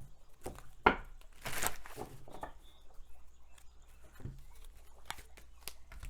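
Tarot cards being shuffled and drawn by hand: a string of sharp taps and flicks, with a short rustle about a second and a half in.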